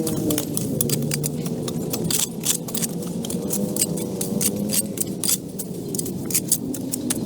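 Motor vehicle engines running and passing, their pitch rising and falling, under a jumble of many sharp metallic clicks and clinks.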